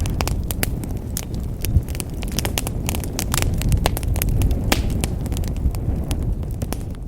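Fireplace fire crackling, with many irregular sharp pops and snaps over a steady low rumble of flame.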